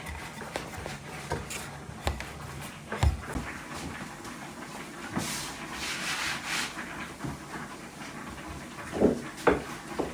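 Rubbing and scraping with scattered light knocks, including a longer hissing scrape about five seconds in and a few louder knocks near the end.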